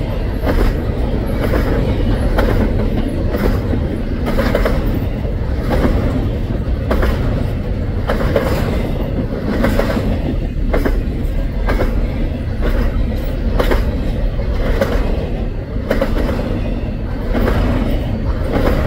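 Double-stack container freight cars rolling past close by: a steady heavy rumble with many sharp wheel clacks on the track, several a second at uneven spacing.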